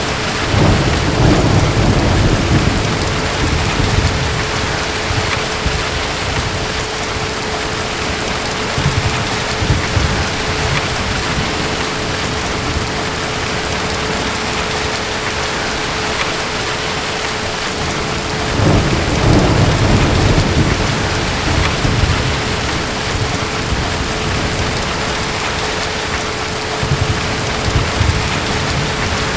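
Steady heavy rain with distant thunder rumbling. Two longer low rolls come about a second in and again about two-thirds of the way through, with weaker rumbles in between.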